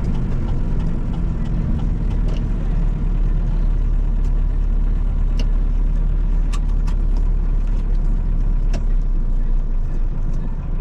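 Diesel engine of a Mercedes-Benz Atego hooklift truck running steadily, with a few scattered sharp clicks.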